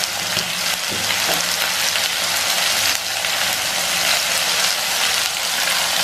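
Aubergine and potato pieces sizzling steadily in hot oil in a wok.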